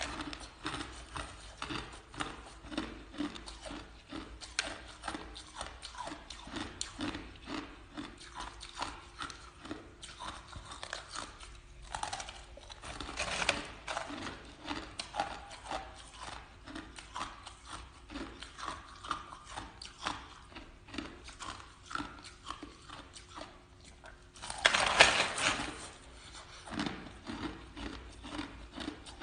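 Ice being chewed close to the microphone: a steady, rapid run of crunches, with louder, denser bites about halfway through and again near the end.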